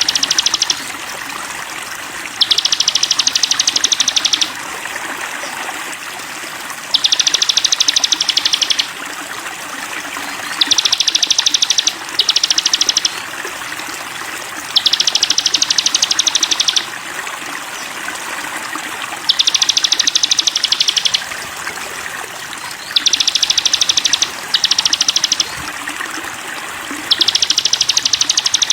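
Sogon songbird singing a fast, high trill in phrases of about two seconds, repeated about every four seconds, some phrases broken into two parts, over a steady sound of running water.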